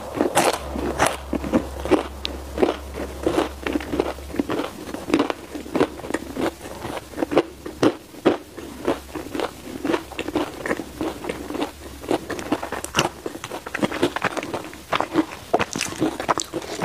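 Close-miked chewing of crisp-crusted baked mochi bread, a steady run of short crunchy, sticky mouth clicks about two to three a second.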